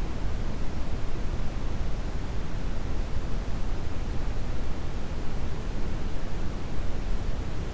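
Brown noise: a steady, even hiss-rumble weighted heavily toward the low end, with no changes or events.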